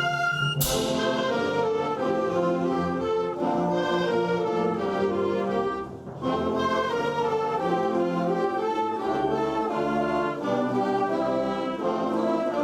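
School band playing, with brass to the fore and sustained chords. A loud crash about half a second in rings on, and the music briefly breaks off near the middle before carrying on.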